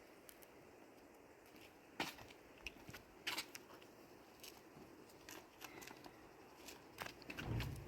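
Faint, scattered clicks and taps of things being handled, with a heavier knock and a low rustle near the end.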